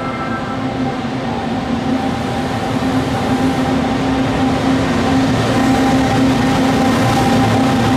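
JR Freight EF210 electric locomotive hauling Tobu N100 "Spacia X" EMU cars, approaching and passing close by. A steady hum sits over a rumble of wheels that grows louder as the train nears.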